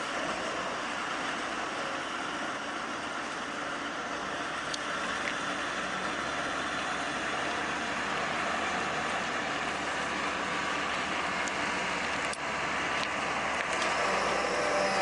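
Heavy vehicle engine running steadily, with a few faint clicks.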